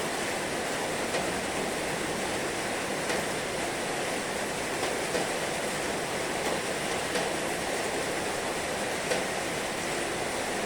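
Heavy rain falling steadily, a dense, even hiss with a faint sharper drop tap every second or two.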